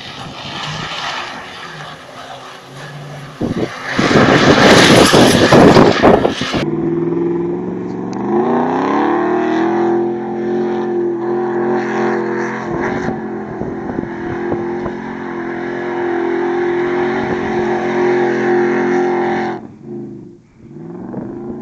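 Pickup truck engines revving hard off-road. First comes a rough, loud run with a burst of noise, then, after a cut, an engine revs up over a second or so and is held at steady high revs for about ten seconds before it drops off suddenly.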